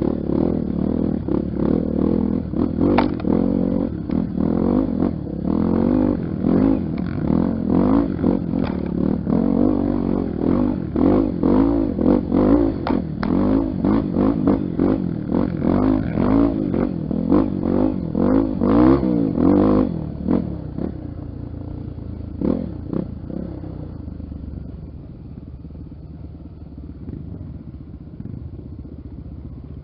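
Honda XR 250 Tornado's single-cylinder four-stroke engine revving up and down, with clattering and knocks over it. About twenty seconds in it drops to quieter, steadier running.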